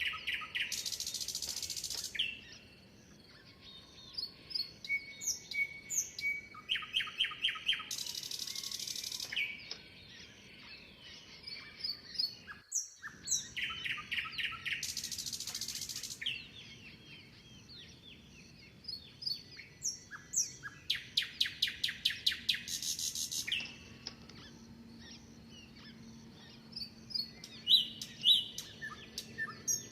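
Songbirds singing and chirping. A loud song of rapid repeated notes with a high hissing part comes back about every seven seconds, and other birds give short chirps and whistles in between.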